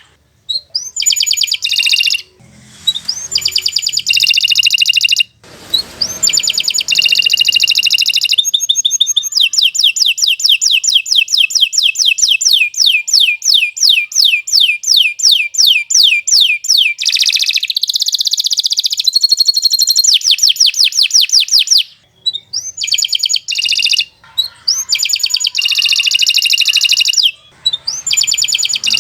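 Domestic canary singing a long, fast song of rapid trills and rolls, broken by a few brief pauses. In the middle one even trill runs on for about seven seconds.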